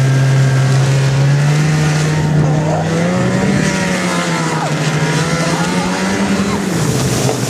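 Snowmobile engine running under load, its pitch rising about three seconds in, holding, then dropping back near the end, over a steady hiss of wind.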